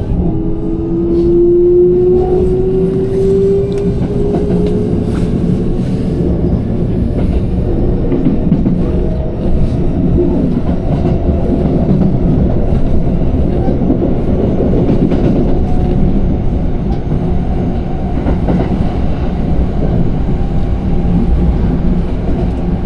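Electric train running on rails with a steady low rumble. A motor whine rises in pitch over the first few seconds as the train picks up speed, and there are occasional clicks of the wheels over the rail joints.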